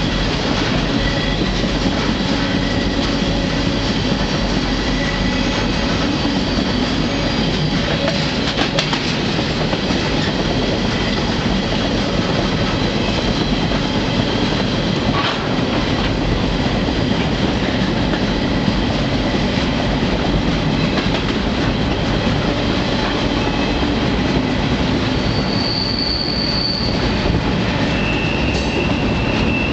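Freight train running steadily, heard from aboard a car: a continuous loud rumble and rattle of steel wheels on the rails with an occasional sharp clank. Near the end come two brief high-pitched wheel squeals.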